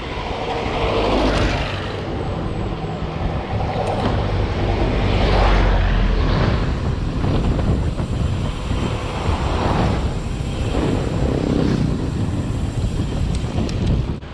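Wind rushing over the microphone of a bike-mounted camera, mixed with road and traffic noise, during a mountain bike ride. The noise swells several times.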